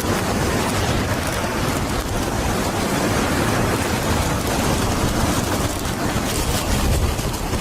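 Hurricane wind and heavy rain: a steady, dense rushing noise with a low rumble.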